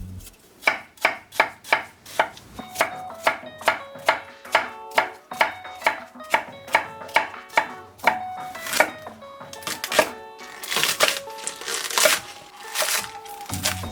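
Kitchen knife chopping vegetables on a cutting board in steady strokes, about two to three a second, with a quicker, less even run of cuts near the end.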